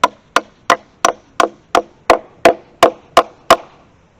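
Hammer striking wood in quick, evenly spaced blows, about three a second, about eleven strikes that stop near the end.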